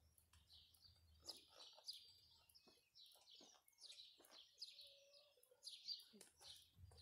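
Faint bird chirping: many short, high calls repeating one after another, with a few soft clicks among them.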